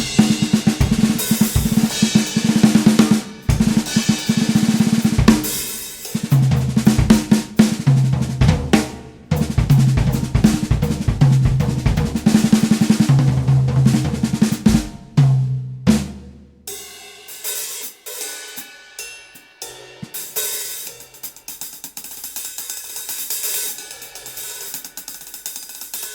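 Drum kit played with snare and cymbals over a low bass line. About sixteen seconds in the low notes drop out, leaving lighter, quieter hi-hat and cymbal playing.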